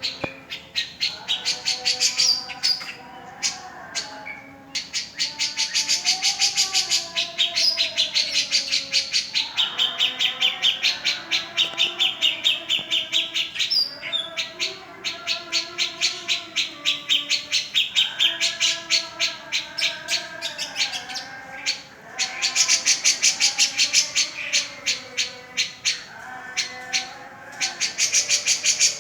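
A caged cica jenggot songbird singing loudly in full voice ('gacor'): long runs of rapid, high chirps at many notes a second, broken by brief pauses, with softer gliding lower notes under them.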